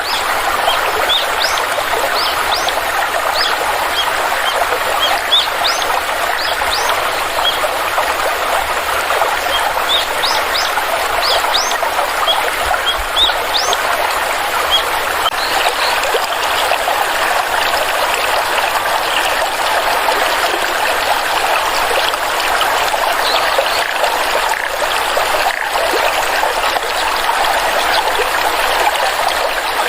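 A small stream running and trickling steadily, with birds chirping in short, rising notes through the first half, thinning out after that.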